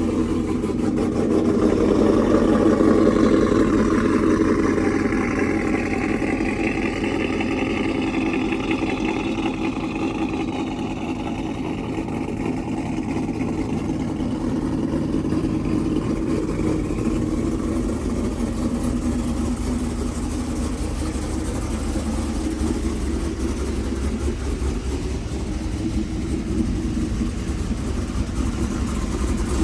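Cammed GMC Sierra's V8, fitted with a Brian Tooley Racing stage 4 camshaft, revving in the first several seconds and then settling into a steady idle.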